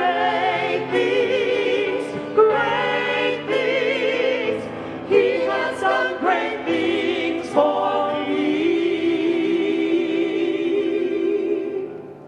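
Choir singing slow, sustained chords with vibrato; the final chord fades away near the end.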